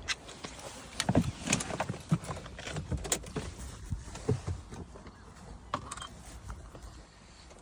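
Scattered clicks, knocks and rustles of keys and handling in and around a car, with the Audi S6's 4.2 V8 not yet running; the sounds thin out near the end.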